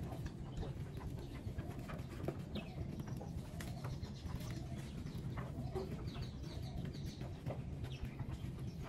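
Birds calling: low cooing and scattered higher chirps over a steady low background hum.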